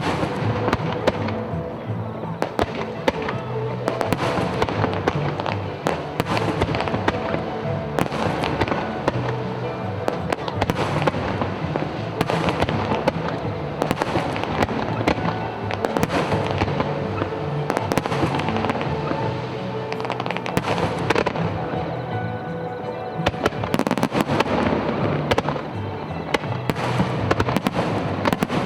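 Aerial fireworks bursting and crackling in quick, dense succession over music.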